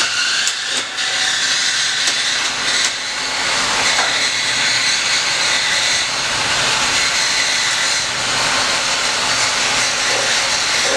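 A steady, loud hiss from shop work on a car's exhaust, with a few sharp clicks in the first three seconds.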